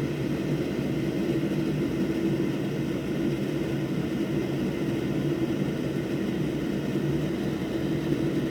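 A workshop fan runs with a steady whir and low hum that does not change.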